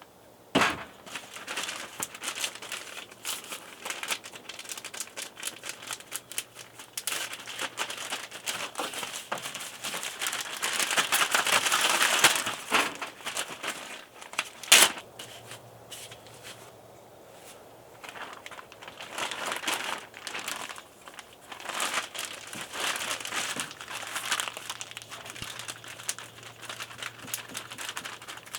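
Crinkling and rustling of something being handled, with many small clicks and knocks. It grows louder about ten seconds in, and there is a sharp knock about fifteen seconds in.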